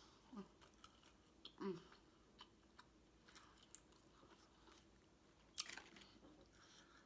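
Faint chewing and wet mouth clicks from a person eating, with two short hums near the start and a slightly louder click near the end.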